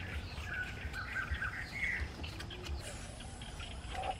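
Wild birds chirping in short repeated notes over a low steady rumble of outdoor background noise.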